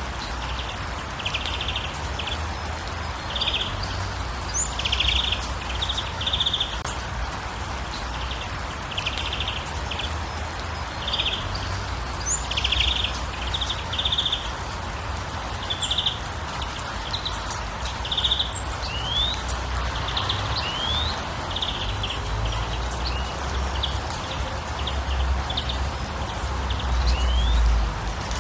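Short bird chirps and trills repeating every second or so, a few as quick rising notes, over a steady hiss of running water or rain and a low rumble that grows louder near the end.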